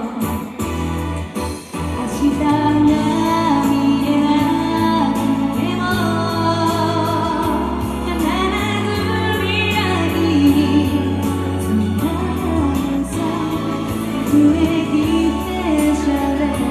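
A woman singing a pop song live over a band-style backing, with a steady drum beat and bass.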